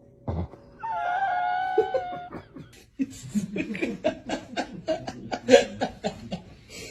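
A person laughing hard in quick bursts for the last four seconds or so. Before that comes a short thump, then a drawn-out, slightly wavering vocal sound held for about a second and a half.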